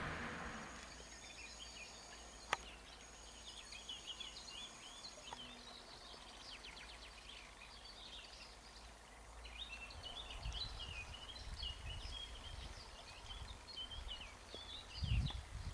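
Birdsong: quick, faint chirping phrases from small birds, coming in two spells. There is a single sharp click about two and a half seconds in, and low bumps near the end.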